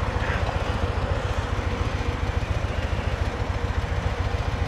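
Motorcycle engine running with a steady, evenly pulsing low throb.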